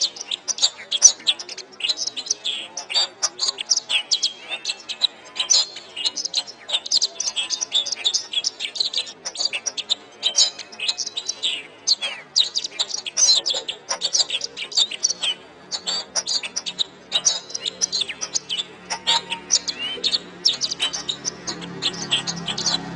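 Domestic canary singing a long, fast song of high chirps and trills with only brief breaks. A low, steady hum grows in under it near the end.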